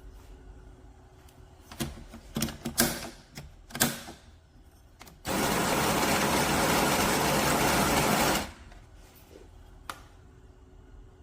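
CASABREWS espresso machine being handled with a few sharp clicks and knocks, then running with a loud, steady mechanical noise for about three seconds that starts and cuts off abruptly.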